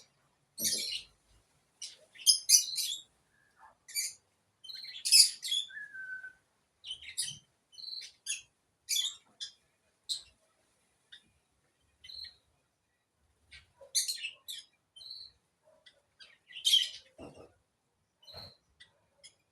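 Small birds chirping in short, scattered high-pitched calls, with brief quiet gaps between them.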